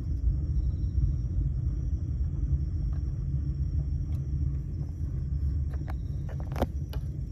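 A steady low rumble, with a few faint ticks in the second half.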